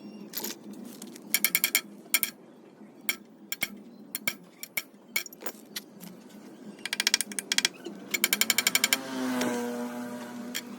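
Sharp clicks and rapid runs of taps, about ten a second, from hand work in a lathe restoration. Near the end a short ringing tone falls in pitch, over a faint steady hum.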